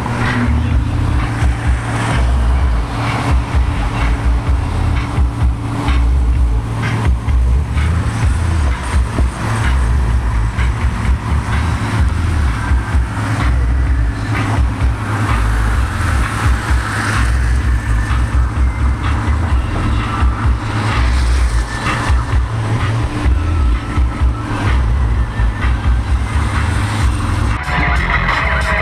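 Steady road and wind noise from a vehicle driving at speed on the freeway, with a heavy, uneven low rumble.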